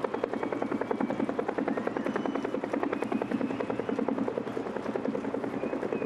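Military helicopter rotors beating in a fast, steady chop, with a faint turbine whine above it.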